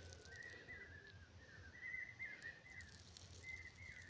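Faint bird calls: a run of short, wavering high notes repeating over a low background hum.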